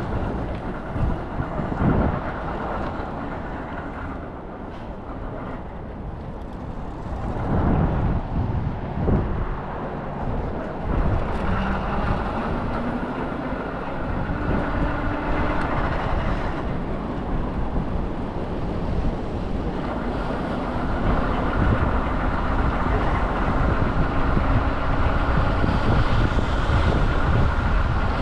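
Wind on the microphone over a steady motor vehicle rumble, which grows louder in the last third.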